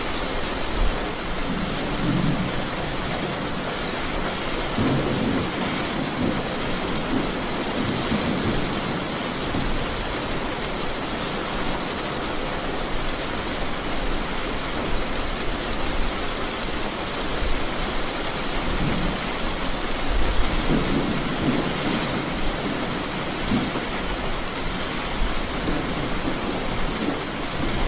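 Steady heavy rain falling, with rolling thunder rumbling low in two spells, one in the first ten seconds and another in the second half.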